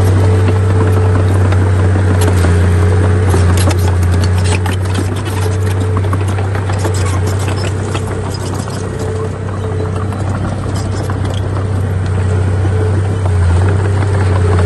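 Bulldozer's diesel engine running steadily under load, a deep constant drone with scattered clatter and knocks over it.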